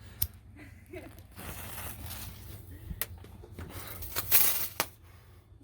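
A few sharp snaps, with a short, louder crackling hiss just after four seconds in.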